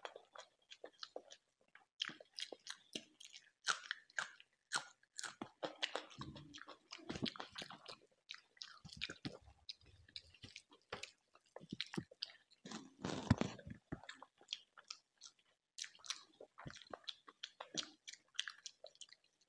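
Chewing and mouth sounds of a man eating chicken and rice: irregular wet smacks, bites and occasional crunches, with a louder bout of chewing about two-thirds of the way in.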